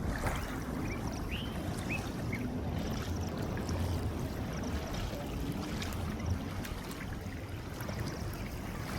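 Water splashing and trickling over a steady low rumble, with a few faint short chirps.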